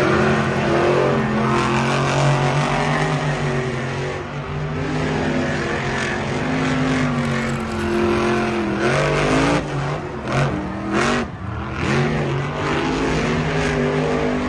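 Car engine running and revving, its pitch rising several times, with a few sharp knocks or skid sounds about two thirds of the way through.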